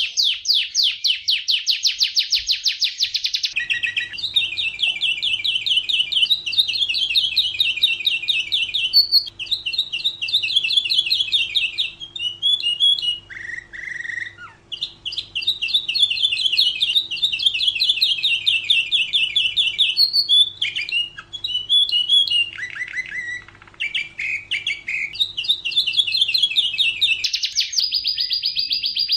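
Domestic canary singing a long run of fast, rolling trills, one tour after another with only short breaks. A faint steady hum sits beneath most of it.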